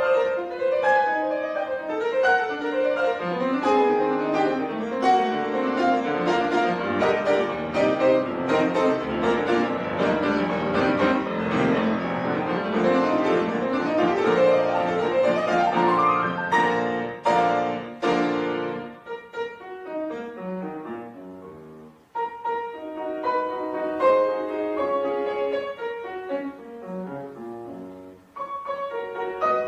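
Piano playing a flowing, classical-style piece: a quick run of notes climbs upward about halfway through, then a run falls back down. After a brief break, a lighter melody resumes.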